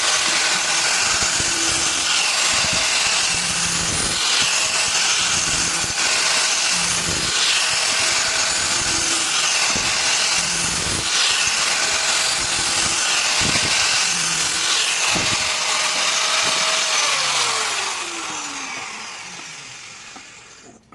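Electric grinder grinding steel with a steady, harsh grinding noise and a recurring rise and fall as the work is pressed and moved. Near the end it is switched off, and the motor's pitch falls as it winds down to a stop.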